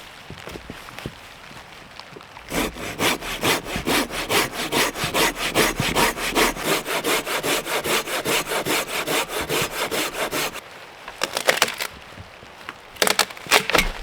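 Folding hand saw cutting through wood in a long run of quick, even back-and-forth strokes. It stops about ten seconds in, and a few more strokes follow near the end.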